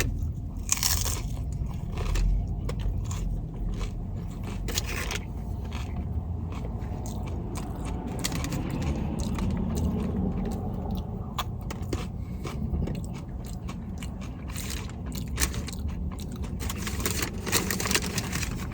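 Mouth sounds of someone eating crunchy hard-shell tacos: irregular crisp crunches and chewing, over a steady low hum.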